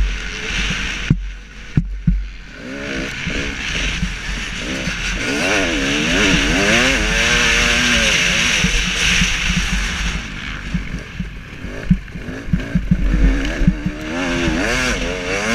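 KTM 300 SX two-stroke motocross bike engine, heard from the rider's helmet camera, revving up and down as it is ridden around the track. The engine drops away briefly about a second in before picking up again, with short low knocks throughout.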